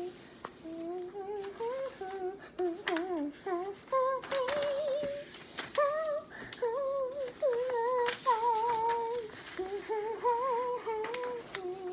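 A person humming a wandering tune without words, with short crackles of paper being handled and creased between the notes.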